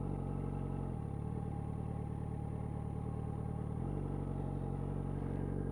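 Yamaha FZ1N motorcycle's inline-four engine running steadily at low revs, its tone shifting slightly about a second in and settling back near the four-second mark.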